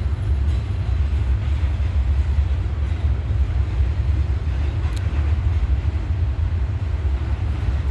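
Freight train cars rolling slowly past, a steady low rumble.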